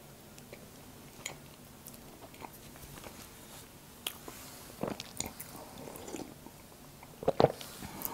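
Close-up chewing of a bite of cream-topped muffin, with small wet mouth clicks. It is punctuated by louder mouth sounds about five seconds in and again, loudest, near the end.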